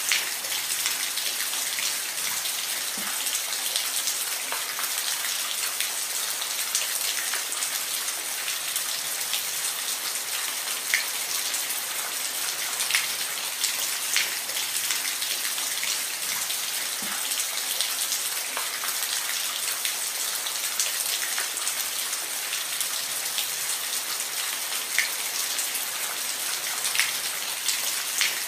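Steady rain falling, an even hiss with close, distinct drops ticking on a surface.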